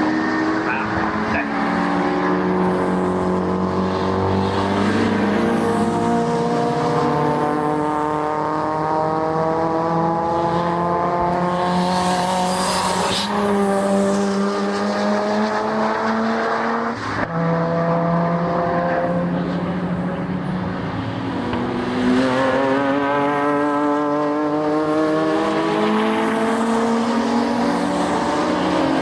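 Several racing cars' engines running hard at once, each climbing in pitch through the revs and dropping back at gear changes as the cars lap the circuit.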